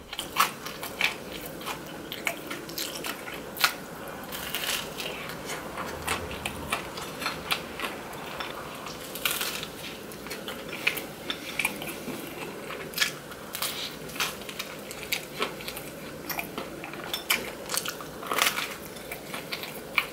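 Close-miked biting and chewing of crisp Chicago deep-dish pizza crust: a steady string of irregular crunches and crackles.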